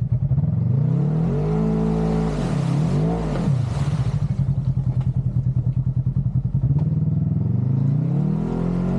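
Side-by-side UTV engine running and revved up twice, the pitch climbing and falling back about a second in and climbing again near the end.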